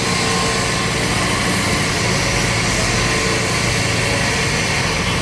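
Excavator's diesel engine running steadily under a constant, loud rushing noise.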